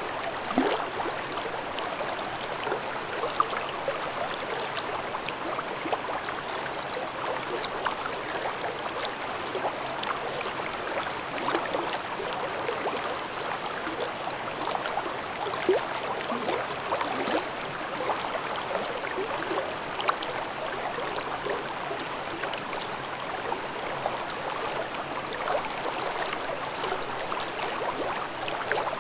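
Mountain stream babbling over rocks: a steady rush of water with constant small gurgles and splashes, now and then a slightly louder one.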